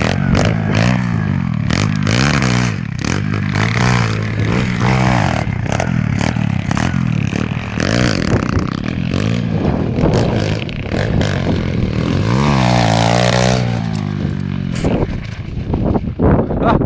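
Pit bike engine revving up and down over and over as it is ridden, with one longer rising rev about twelve seconds in. Knocks and clatter come through, most of them near the end.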